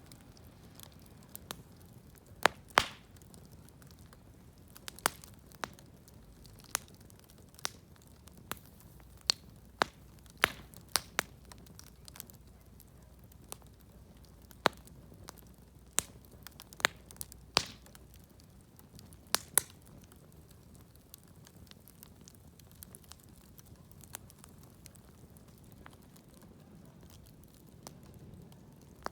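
Small wood fire of old, weathered shed timber crackling, with irregular sharp pops, now and then two close together; the pops grow sparser in the last third.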